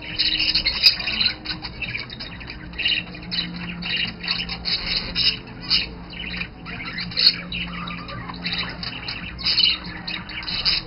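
Budgerigars chattering and squawking: a continuous run of short, scratchy chirps, with two brief sharp clicks, one about a second in and another near seven seconds in.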